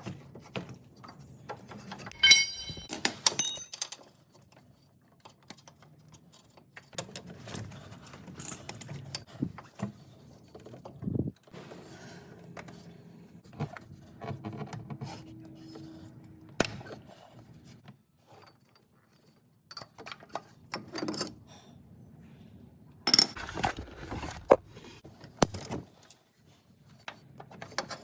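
Metal hand tools and parts clinking, tapping and knocking, with a short metallic ring about two seconds in and a busier run of knocks near the end.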